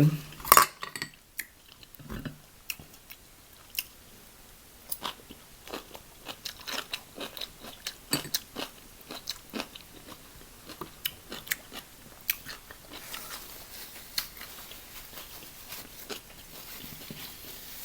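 Eating seafood from a seafood boil: a run of separate sharp cracks and crunches from shells being broken, with chewing between them.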